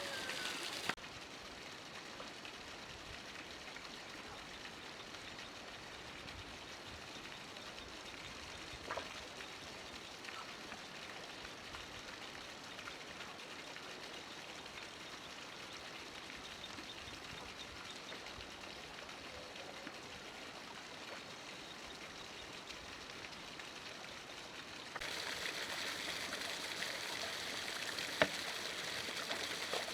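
Steady rushing noise like running water, which changes abruptly about a second in and again near the end, with a couple of sharp clicks.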